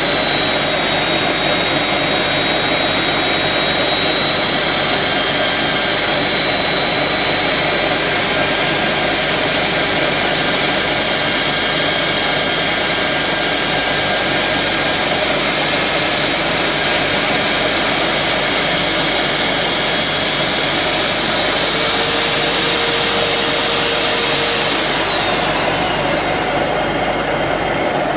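Hand-held power tool with an abrasive wheel running steadily against a Mercedes shock absorber rod turning in a lathe, sanding scratches out of the rod. A steady high whine runs over the grinding noise, and a few seconds before the end it falls away as the tool spins down.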